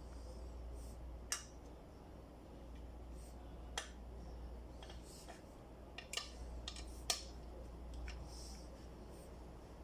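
Scattered sharp metallic clicks from hands-on work on a mountain bike's derailleurs, about eight at uneven intervals, the loudest about seven seconds in, over a steady low hum.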